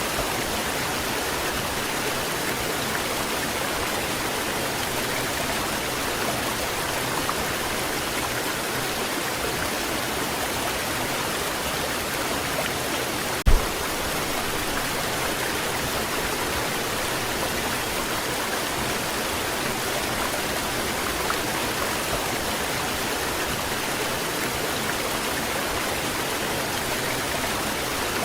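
Waterfall rushing steadily, with one short thump about halfway through.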